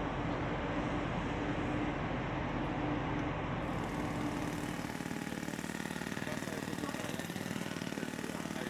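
An engine running steadily. About five seconds in, the sound changes to a different engine with a fast, even pulsing.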